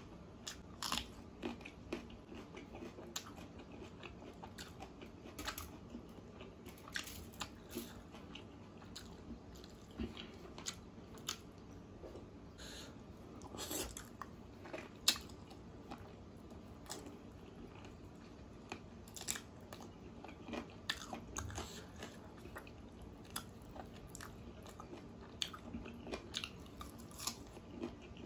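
A person chewing and biting food up close, with frequent short crunching clicks at irregular intervals.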